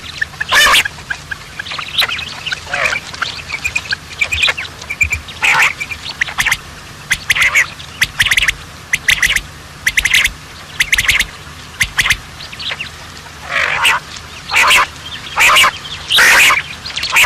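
Birds giving short, harsh squawking calls over and over, one after another at irregular intervals.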